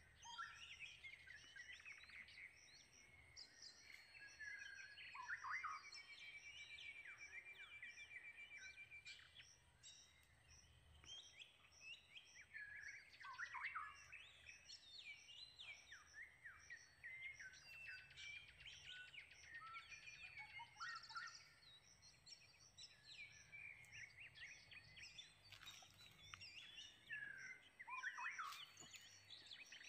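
Faint chorus of several birds chirping and calling, short varied notes overlapping throughout, with a repeated high note running behind them.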